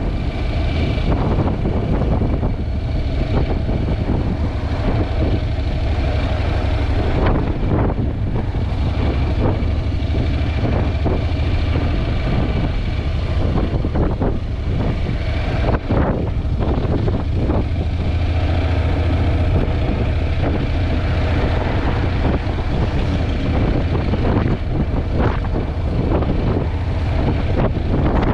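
Wind noise buffeting the camera's microphone on a moving Honda NC750X motorcycle, with the bike's parallel-twin engine running under it as a steady low rumble.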